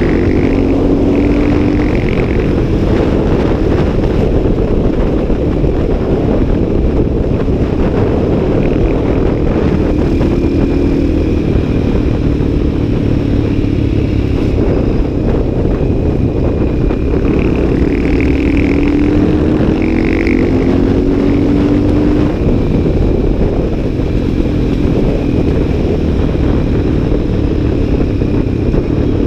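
CCM 604 supermoto's single-cylinder engine running under way, its pitch climbing several times as it pulls through the gears, under heavy wind rush over the microphone.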